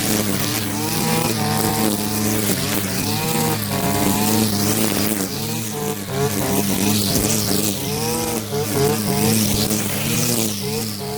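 Stihl FS 120 petrol string trimmer's two-stroke engine running at cutting speed, its pitch wavering up and down as the line head cuts through dry grass.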